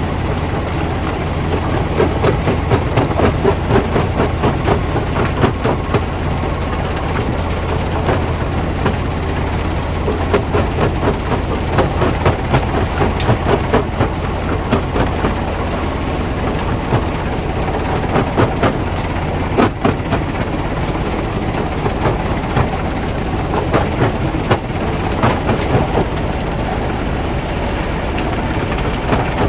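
Heavy rock-processing machinery running steadily with a deep hum, with frequent sharp knocks and clatter of stone against steel throughout.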